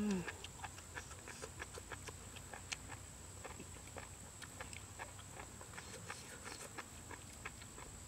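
Close-up chewing and lip-smacking of someone eating mushrooms: many small wet clicks, about three or four a second, irregular. A short falling hummed "mm" right at the start.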